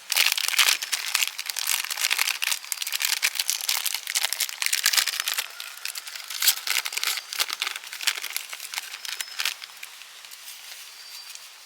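Crinkling and crackling of something being handled, a dense run of fine crackles that starts suddenly, is busiest in the first half and thins out after about eight seconds.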